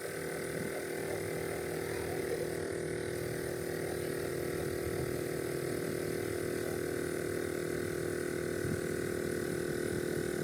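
A steady machine hum of constant pitch, holding a few fixed tones with a low rumble beneath.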